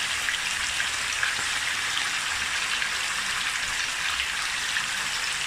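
Seasoned chicken pieces sizzling and crackling in hot oil in a pot as they brown, a steady sizzle throughout.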